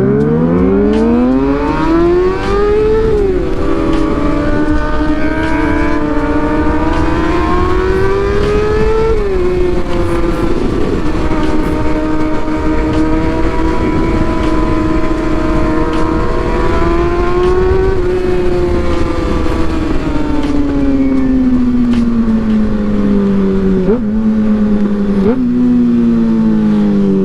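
Motorcycle engine pulling hard through two upshifts, with a sharp drop in pitch at each shift. It then cruises at steady revs and slows, with two quick throttle blips on downshifts near the end, over wind rush.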